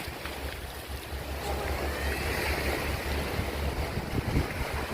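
Sea waves washing, with wind buffeting the microphone in a steady low rumble.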